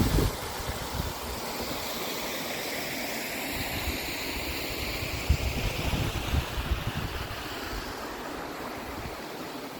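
Steady rush of water from a stream or cascade, with low gusts of wind buffeting the microphone near the start and again about five seconds in.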